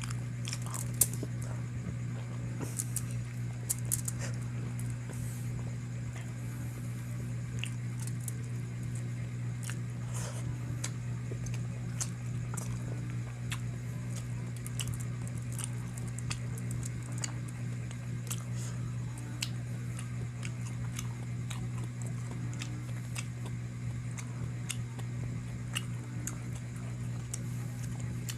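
Close-miked eating sounds: scattered small wet clicks and smacks of someone chewing spicy chicken, over a steady low hum.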